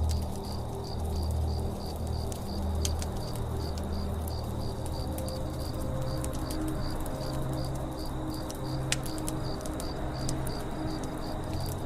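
Campfire crackling with scattered sharp pops, one louder pop a little past the middle, over a forest ambience with an insect chirping steadily about four times a second and a low drone underneath.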